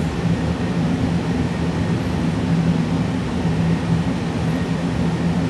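Steady low machine hum, with an even low tone and no clicks or changes.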